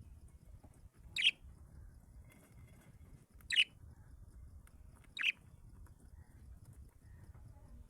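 A bird giving three short, sharp, high-pitched calls, about two seconds apart.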